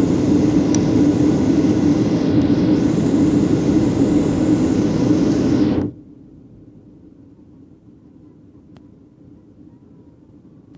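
Airliner engine and airflow noise heard inside the passenger cabin during the landing approach: a loud, steady roar that cuts off suddenly about six seconds in, leaving a much quieter steady hum.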